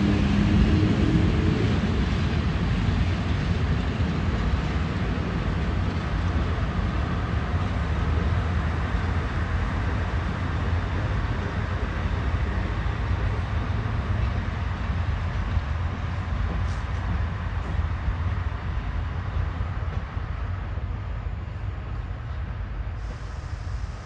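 ET41 two-section electric locomotive moving slowly during a shunting run, a steady low rumble that slowly grows quieter.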